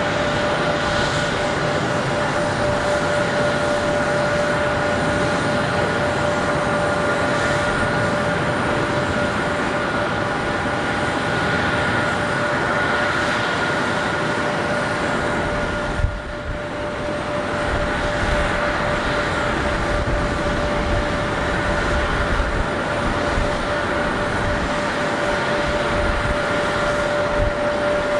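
Jet airliner engines running with a steady whine over a broad rushing noise. There is a single short knock about sixteen seconds in.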